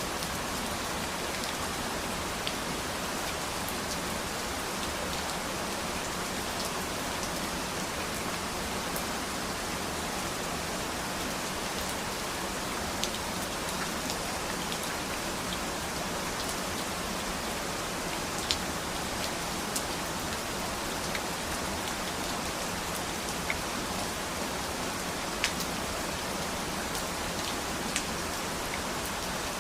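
Steady rain falling, an even hiss with single drops now and then ticking sharply against a surface.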